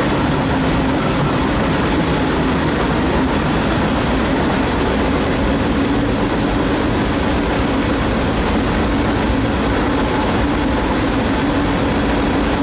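Freight train running at speed, heard from the end platform of one of its cars: a loud, steady rumble with a low hum running through it.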